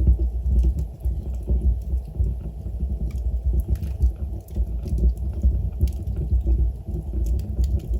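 Wood fire burning in a fireplace: a low, uneven rumble of the flames with scattered faint crackles and pops.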